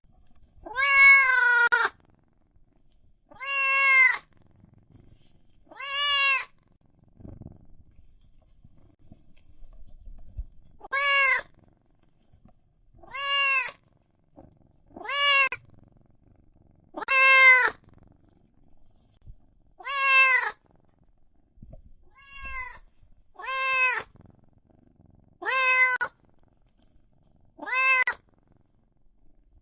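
Domestic cat meowing repeatedly: about a dozen separate meows, each under a second and rising then falling in pitch, spaced roughly two seconds apart, with a pause of a few seconds after the third.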